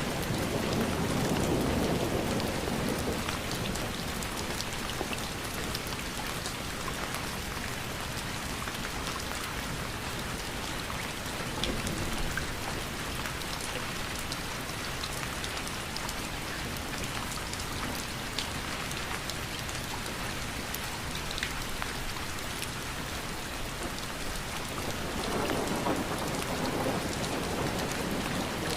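Steady rain, an even hiss with scattered sharp drop ticks. A low rumble swells over the first few seconds and again near the end.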